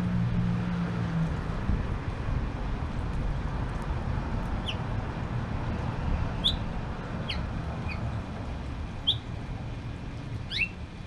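Small bird chirping: about six short, high, falling chirps scattered through the second half, over a steady low rumble. A low hum stops a couple of seconds in.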